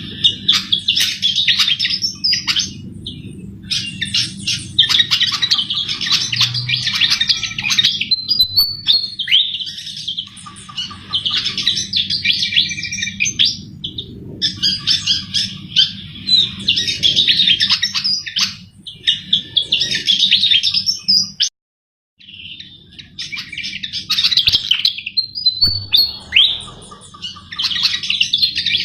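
Sikatan jawa flycatcher singing vigorously, in dense, fast twittering phrases of about two seconds with short pauses between them, over a steady low hum. The sound drops out completely for half a second about 21 seconds in.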